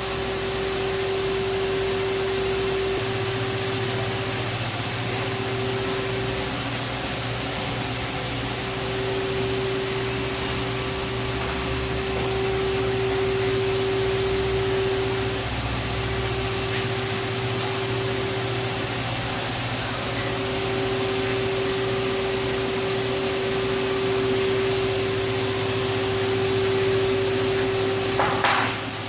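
Haas SL20 CNC lathe running: a steady machine hum with a constant mid-pitched tone over a high hiss, a deeper hum joining about three seconds in, and a short change in the sound near the end.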